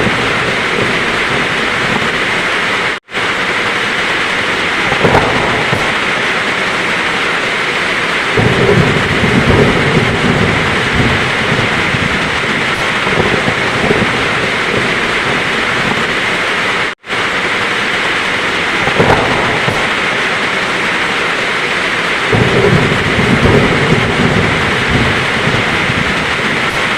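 Heavy rain falling steadily, with thunder rumbling twice, once about a third of the way in and again near the end. The whole sound cuts out for an instant twice.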